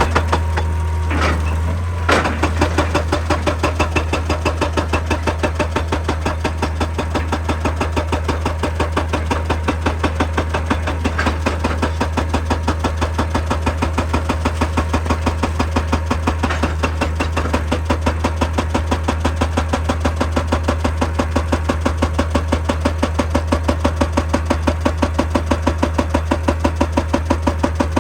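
Excavator-mounted hydraulic rock breaker hammering rock in a rapid, even train of blows, starting about two seconds in, over the steady hum of the excavator's diesel engine.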